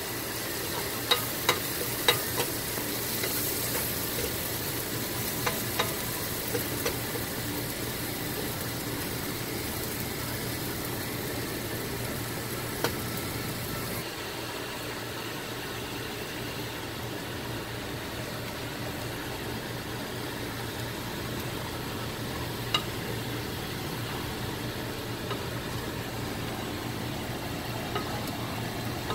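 Sliced mushrooms frying in a nonstick pan: a steady sizzle with a low hum under it, broken by a few sharp taps, most of them in the first seven seconds.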